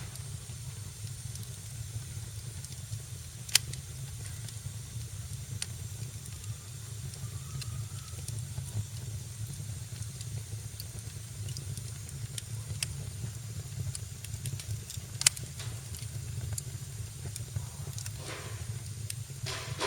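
Wood fire burning in a fireplace: a steady low rumble and hiss with scattered crackles, two sharp loud pops (about three and a half seconds in and about fifteen seconds in), and a brief rushing noise near the end.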